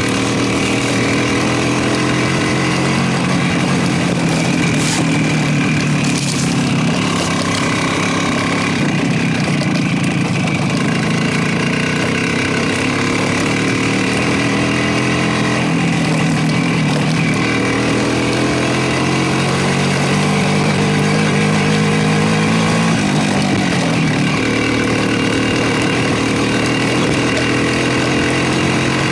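Motorcycle engine running on the move, its pitch climbing slowly and dropping back several times.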